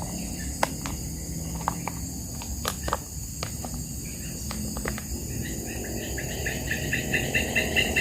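Steady high drone of crickets and other insects, with a few short clicks in the first half. From about six seconds a pulsed call repeated about three times a second grows steadily louder.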